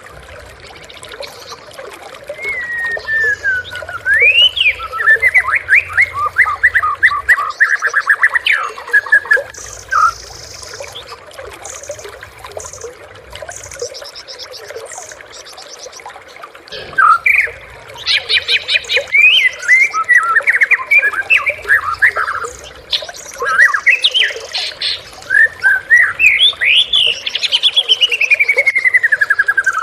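White-rumped shama (murai batu) singing loud, varied phrases of whistles, slurred glides and rapid repeated notes. The song comes in two long bursts with a pause of several seconds between them.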